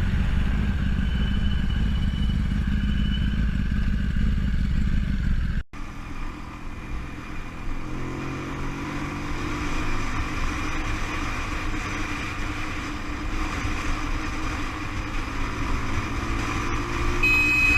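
Motorcycle engine running with a heavy low rumble of wind and road noise, cut off abruptly about six seconds in and replaced by a quieter motorcycle engine whose pitch drifts up and down. A steady high tone starts near the end.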